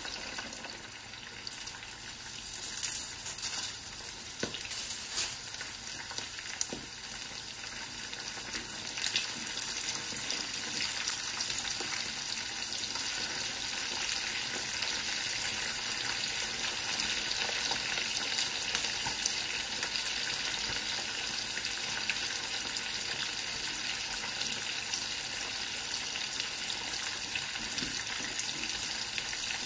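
Chicken pieces frying in hot oil in a frying pan: a steady sizzle that grows a little louder after about eight seconds, with a few sharp crackles in the first five seconds.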